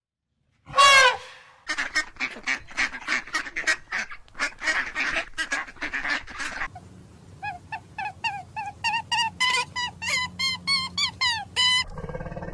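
Birds calling. First one loud call falling in pitch, then a rapid run of calls about five a second, and from about seven seconds in a slower run of clear, pitched calls about three a second. A different, lower sound takes over just before the end.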